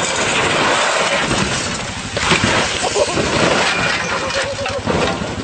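A car crash: a smash with breaking glass, with the loudest burst a little over two seconds in, over continuous loud noise.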